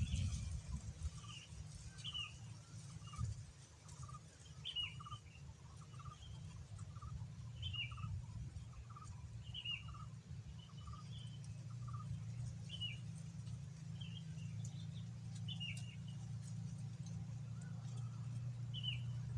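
Sooty-headed bulbul (kutilang) calling: short, sharp, falling chirps about once a second, with softer lower notes repeating quickly in the first half, over a steady low hum.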